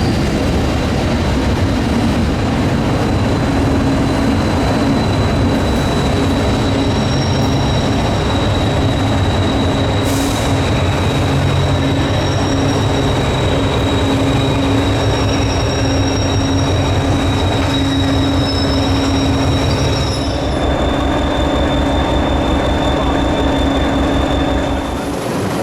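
Class 201 Hastings diesel-electric multiple unit on the move: a steady engine drone over wheel and rail noise, with a thin high whine. The engine note and the whine shift slightly about 20 seconds in.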